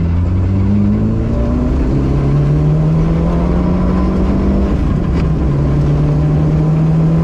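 Rally car's engine heard from inside, accelerating hard along a gravel road: the pitch climbs, drops with an upshift about two seconds in, climbs again and drops with another upshift about five seconds in. Steady road rumble from the gravel runs underneath.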